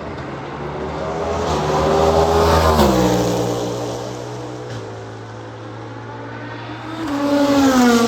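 Race cars passing at high speed: the engine note of one rises as it approaches and drops sharply in pitch as it goes by about three seconds in, and a second car passes near the end.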